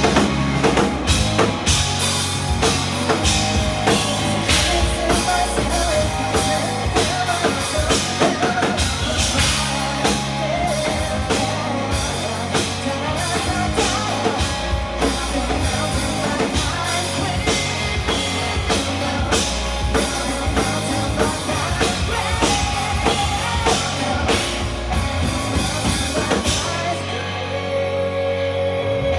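Live rock band playing loudly: drum kit, bass and electric guitar. About two seconds before the end the drums stop, leaving held, ringing tones.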